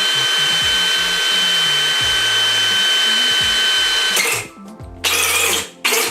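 Power drill with a hole saw cutting through a plastic tube, running steadily with a high whine, stopping about four seconds in. Several short bursts follow near the end.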